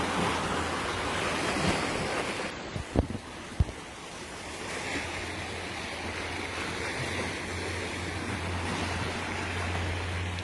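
Sea waves washing on a rocky shore, louder in the first couple of seconds, with wind on the microphone and two short thumps about three seconds in.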